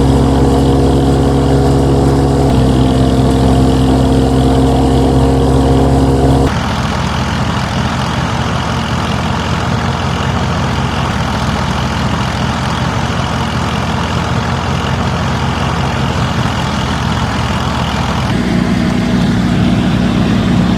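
Small machine motors running steadily, in three cut-together segments: a steady hum that steps in pitch about two and a half seconds in, then from about six seconds a rougher, rapidly pulsing run, and near the end a change to a lower steady tone.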